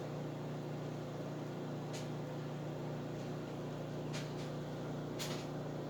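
Steady low hum with a few faint, short ticks about two, four and five seconds in.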